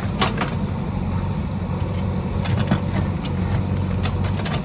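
JCB backhoe loader's diesel engine running steadily, with a few short sharp knocks over it.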